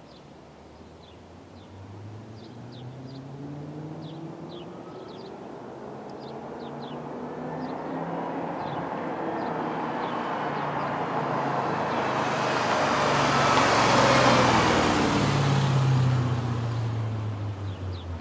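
Audi S4 B6's 4.2-litre V8 on JHM headers and a Milltek non-resonated exhaust, driving past: the engine note climbs as the car approaches, is loudest about fourteen seconds in as it passes, then falls away. Birds chirp faintly in the first several seconds.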